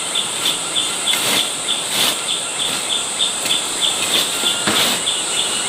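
Forest ambience: a steady high buzz of calling wildlife with a short chirp repeating about three times a second, and a few scattered knocks.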